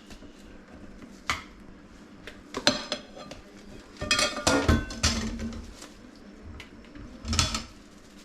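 Plate and cutlery clattering in a kitchen sink: a few separate knocks and clinks, with a busier clatter about four to five seconds in.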